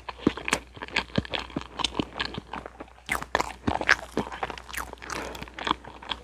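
Close-miked chewing of a soft strawberry cream parfait: a dense run of wet mouth clicks and smacks. Later on, a wooden spoon scoops through the cream in the plastic cup.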